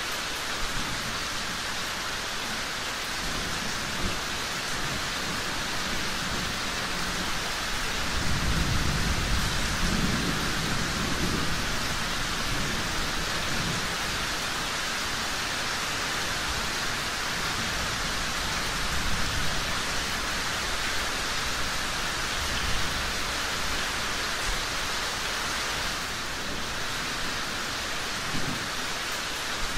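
Steady rain falling, with a low roll of thunder swelling about eight seconds in and fading by about twelve, and a few sharp pops from a crackling fireplace.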